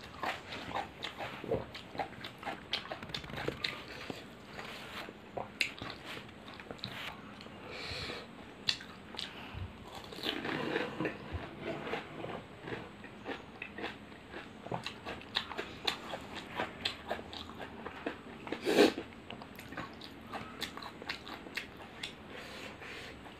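Close-up mouth sounds of eating pani puri: crisp fried puri shells filled with spicy water crunching and being chewed in irregular quick crackles, with one much louder sudden sound about three-quarters of the way through.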